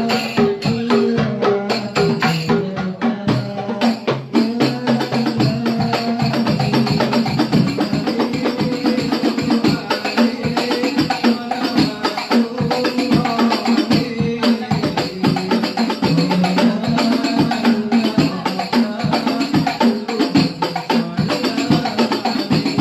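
Banjari percussion ensemble playing continuous, fast darbuka drum strokes over a pitched melody line.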